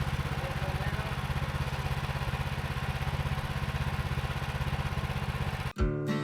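Small gas engine of a portable bandsaw sawmill running steadily with an even firing pulse. Near the end it cuts off suddenly into strummed acoustic guitar music.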